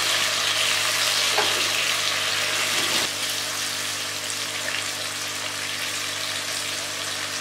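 Chopped onion and freshly added tomato sizzling in hot oil in a coated kadhai, stirred with a silicone spatula. The steady frying hiss eases a little about three seconds in.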